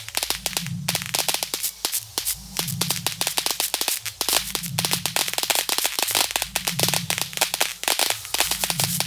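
Firework battery going off: a dense, irregular string of sharp cracks and small bangs, like crackling stars, over a low pulse that repeats about every second and a half.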